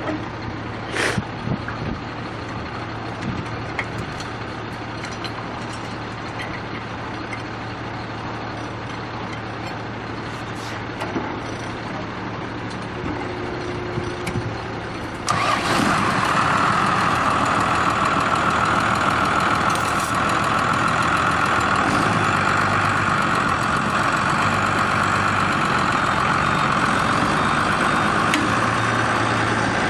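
A heavy vehicle's engine running steadily. About halfway through, the sound cuts abruptly to a louder engine with a steady high whine that holds to the end.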